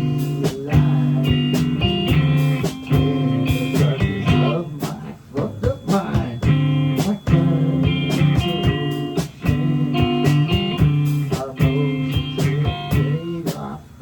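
Live rock band playing: electric guitar chords over bass, with regular drum hits.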